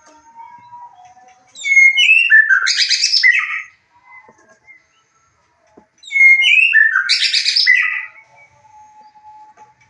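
White-rumped shama (murai batu) song: two loud rapid phrases of whistles and trills, about two seconds each and a few seconds apart, the second a near copy of the first, as from a repeated bait recording. Fainter, steadier whistled notes sound in the gaps.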